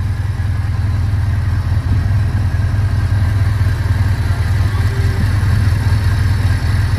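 1983 Suzuki GS1100G's air-cooled inline-four engine idling steadily at a high idle of about 2,000 rpm.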